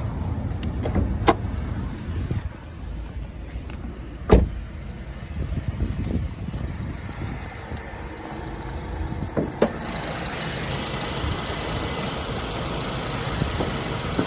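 Honda Accord engine idling, with a sharp click of the hood release about a second in and a loud thud of the driver's door shutting about four seconds in. A clack of the hood latch comes near ten seconds, after which the idle sounds fuller and brighter with the hood open.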